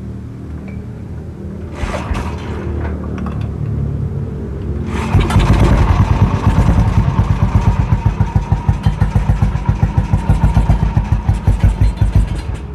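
Motorcycle's old diesel engine, converted to run on petrol, running at a low speed, then about five seconds in going faster and louder with an even pulsing beat.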